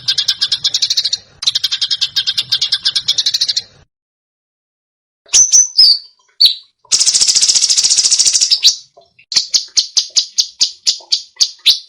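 Small songbird song in rapid-fire 'tembakan' phrases: two fast, dense high trills, then, after about a second and a half of silence, a few sharp chirps, a buzzy trill and a quick run of separate notes.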